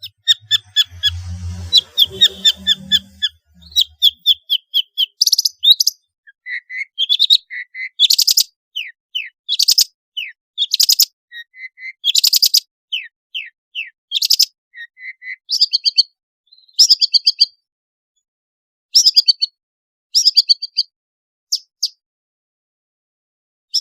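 Long-tailed shrike (pentet) singing vigorously: a varied song of rapid sharp chattering notes mixed with short down-slurred whistles, delivered in bursts with growing pauses toward the end.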